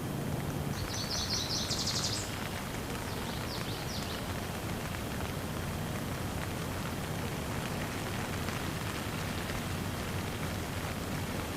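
Steady rain falling, an even hiss of drops. A bird chirps in two quick runs of rapid, high repeated notes within the first few seconds.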